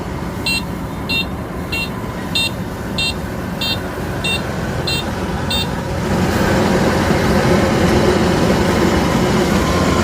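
Rice combine harvester's engine running with a steady drone, while a high electronic warning beeper sounds about nine times at an even pace of roughly one and a half beeps a second; the beeping stops about five and a half seconds in, and soon after the machine grows louder.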